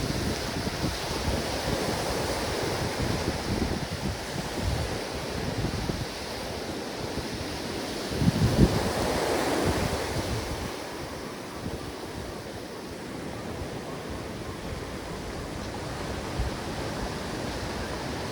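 Ocean waves breaking on a beach: a steady wash of surf, with one wave crashing loudest about eight seconds in and then easing off. Wind buffets the microphone with a low rumble.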